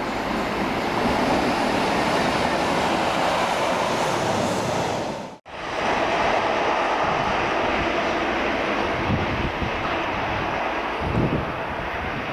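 A train running past on the rails, a steady rumble of wheels and engine, with a brief dropout about halfway through and a few short knocks near the end.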